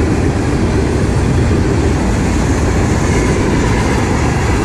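CSX freight train's cars rolling past, a steady, continuous noise of steel wheels on rail.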